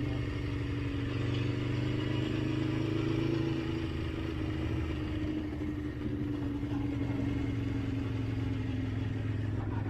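Motorcycle engine running steadily while riding, its pitch sagging slowly as the bike eases off.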